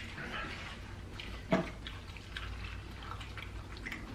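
Wet, close eating sounds of lobster tail in butter sauce being chewed: scattered small smacking clicks, with one sharper click about a second and a half in.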